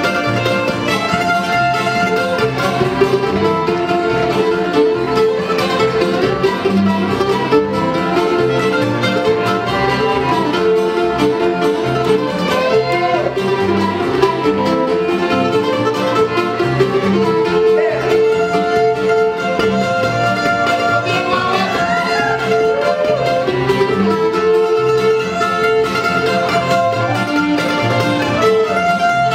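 Old-time string band playing a fiddle tune live, the fiddle leading over mandolin, guitar and upright bass.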